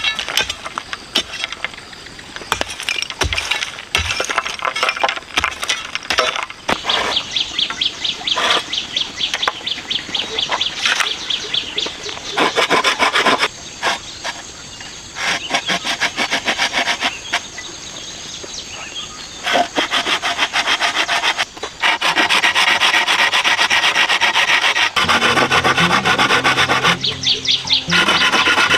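A hand tool working wood in quick, repeated rasping strokes, in spells with short pauses between them.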